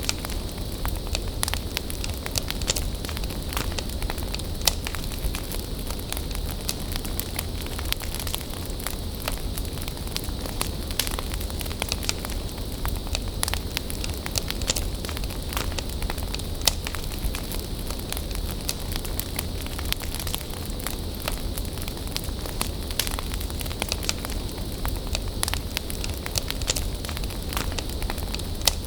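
Bonfire of burning wood crackling, with frequent sharp pops over a steady hiss and a low rumble.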